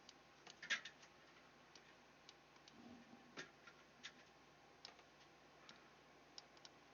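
Near silence with faint, sharp clicks at irregular intervals, about one a second.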